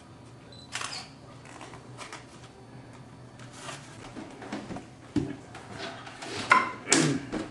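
Handling noise while foam model-plane parts are pressed and glued together: scattered rustles, light taps and clicks, growing busier and louder in the last couple of seconds.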